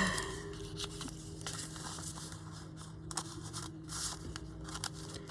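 Faint rustling and scattered light clicks of paper and card being handled, over a steady low hum.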